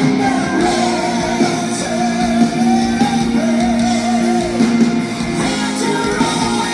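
Live rock band playing: held low notes under a wavering lead melody line.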